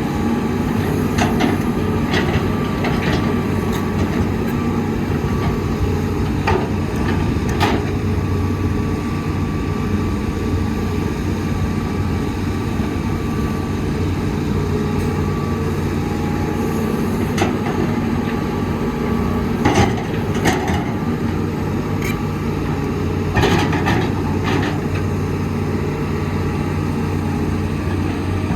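Heavy diesel earthmoving machinery running steadily, with scattered clanks and knocks through it, the most marked about twenty seconds in and again a few seconds later.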